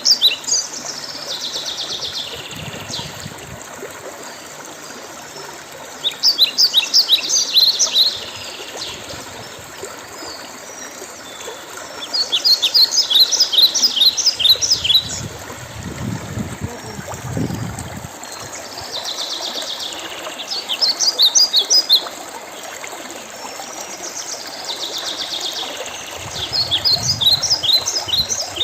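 A songbird repeating a rapid phrase of high chirping notes, each burst about two seconds long, every six or seven seconds, over a steady background rush like running water. A brief low rumble comes about halfway through.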